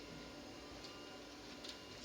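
Quiet room tone with a faint steady hum and two or three light, faint ticks.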